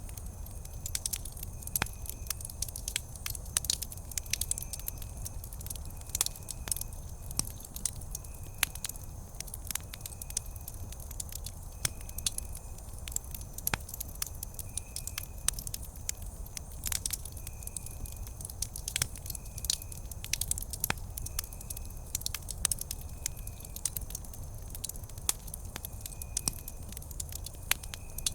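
Wood campfire crackling and popping, with many sharp, irregular snaps over a low steady rumble. A short high chirp repeats about every second or two.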